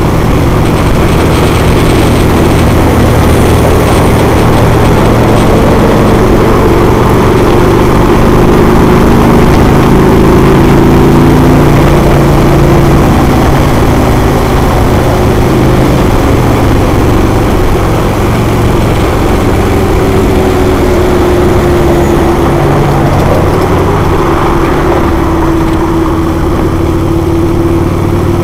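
Harley-Davidson Road King's V-twin engine running steadily at highway cruising speed, its pitch drifting slightly up and down, over a constant rush of wind and road noise.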